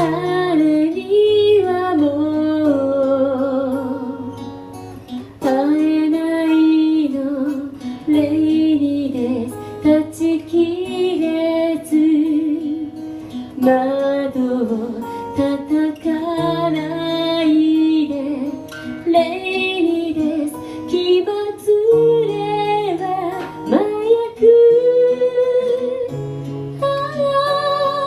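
A woman singing a slow ballad melody with vibrato on held notes, accompanied by acoustic guitar.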